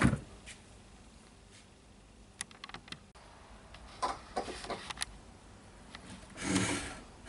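Small wires and connectors being handled at a workbench: a few light clicks and taps about two and a half seconds in and again around four to five seconds, then a short soft rustle near the end.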